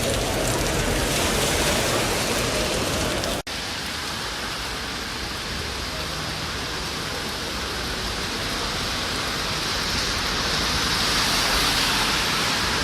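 Heavy rain falling, a steady hiss that drops out for an instant about three and a half seconds in and then carries on.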